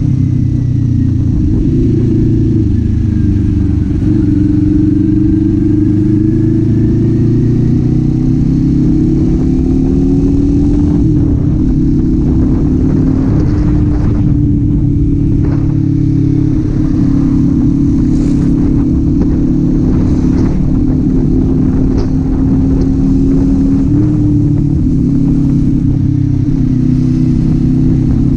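Kawasaki Z400 parallel-twin engine and exhaust running under way at fairly steady revs, the pitch rising and dipping a little as the throttle is eased and opened.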